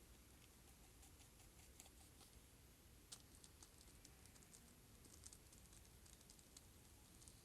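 Near silence with faint, irregular small ticks and crackles scattered throughout.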